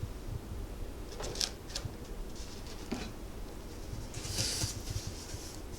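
Quiet room tone with a low hum, a few faint clicks and rustles, and a soft hiss about four seconds in. No mower engine is heard.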